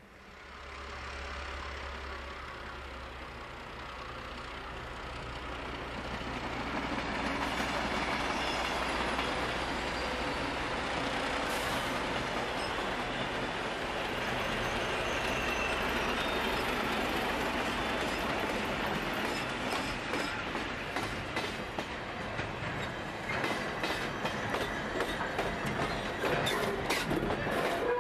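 A slow-moving train hauled by a 48 class diesel locomotive. The engine gives a steady low hum at first, then the noise of the passing train rises. In the last several seconds, wheels click and knock over the rail joints as the towed steam locomotive's tender and the wagons roll by.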